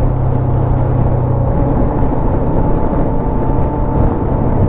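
Motorcycle engine running at a steady cruise with loud wind rush over the rider.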